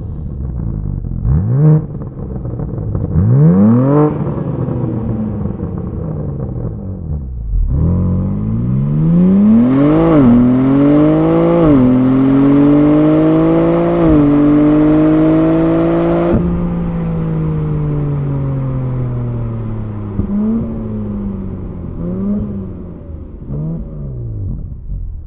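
BMW M3/M4 twin-turbo straight-six through the M Performance titanium valve exhaust: two quick revs, then a hard pull with three upshifts, each dropping the pitch. It lifts off and slows with three short rev-matched throttle blips on the downshifts.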